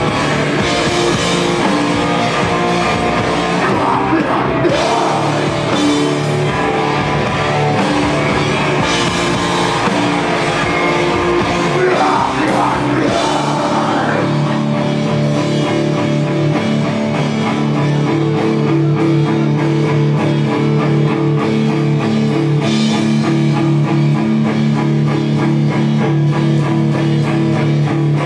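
A rock band playing live, with electric guitars and drums. About halfway through, the low drum and bass range thins out and long held guitar chords ring on.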